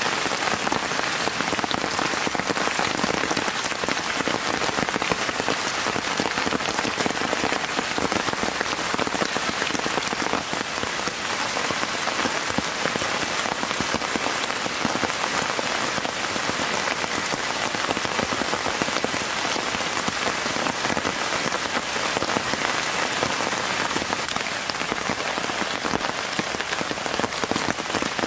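Steady rain falling on a tent, a dense, even pattering of drops that holds without let-up.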